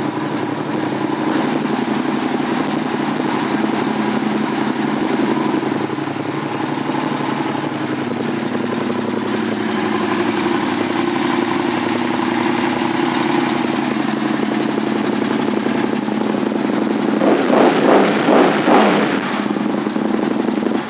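2007 Aprilia Tuono 1000R's V-twin engine idling steadily through a LeoVince aftermarket exhaust. Near the end it is revved up and back down several times.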